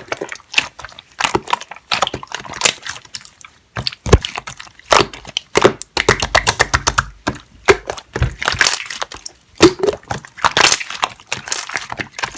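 Clear slime being squeezed and pressed by hand, giving a dense, irregular run of sticky clicks and pops.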